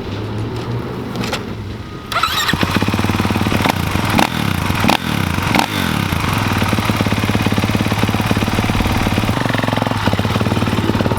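Pit bike engine running at idle, then revved about two seconds in with a few sharp rises and falls, before settling into a steady run.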